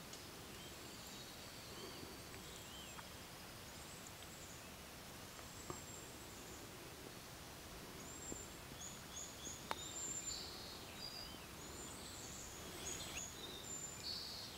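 Short, high chirps of small birds over a faint steady hiss, the chirps coming more often in the second half. There is a sharp click about ten seconds in and a softer one near six seconds.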